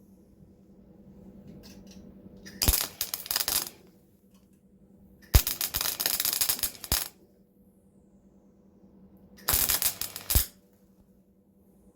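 MIG welder laying three short crackling bursts of weld, each about a second or a second and a half long, with pauses between, as the sill panel is stitch-welded.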